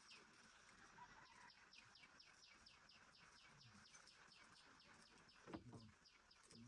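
Faint, rapidly repeated chirps from a small bird, each a quick downward-sliding note, about four or five a second. One soft knock about five and a half seconds in.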